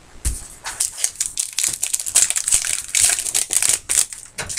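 Plastic trading-card pack wrappers crinkling and crackling as packs of Topps Magic football cards are torn open and handled, in dense irregular crackles.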